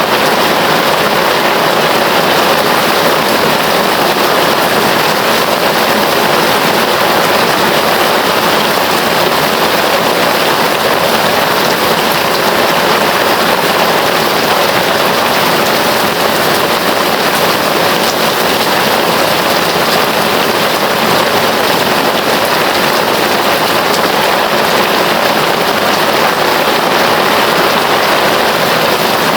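Heavy rain falling steadily, an unbroken even hiss of rain on surfaces with no thunder or distinct drops standing out.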